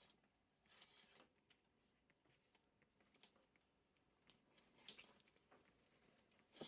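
Near silence, with faint scattered clicks and brief rustles of small parts being handled.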